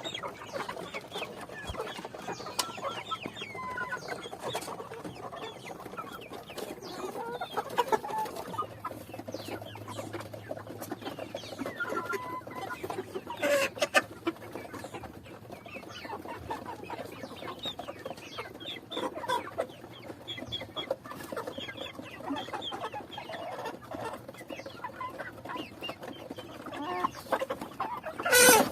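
A flock of chickens clucking and calling, many short calls overlapping, with a louder sharp sound near the end.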